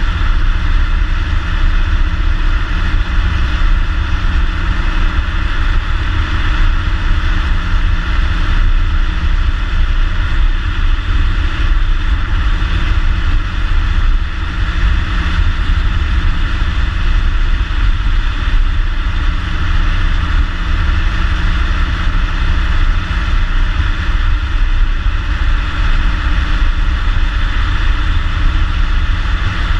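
2014 Ford Mustang's 3.7-litre V6 on its stock exhaust, heard while driving at a steady pace: a constant low rumble with no revving or gear changes.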